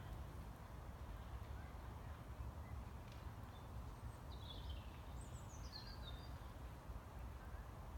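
Quiet outdoor ambience: a low steady rumble, with a small bird giving two quick runs of high, falling chirps a little past the middle.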